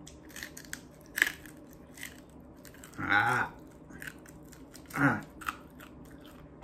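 Biting and crunching on a hard, bony piece of deep-fried sea snake: scattered small cracks and clicks, the sharpest about a second in, with two short hummed grunts around the third and fifth seconds.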